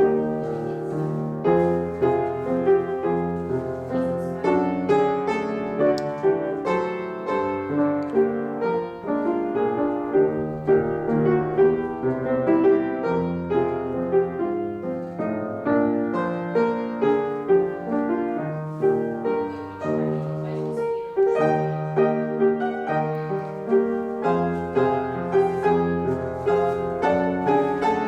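Piano playing steady, evenly phrased music as the accompaniment to a ballet class exercise.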